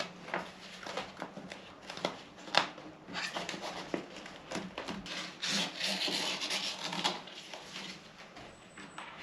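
Hand-work noise: something being rubbed and scraped, with scattered light knocks and clicks and a denser rasping stretch about halfway through.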